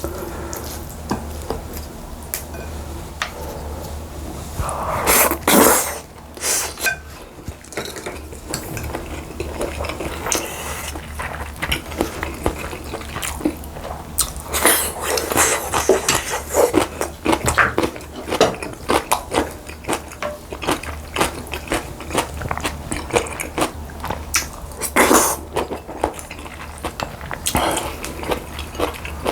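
Spoon and chopsticks clinking and scraping against bowls in irregular taps, with a few louder scraping stretches about five seconds in and near the end, over a steady low hum.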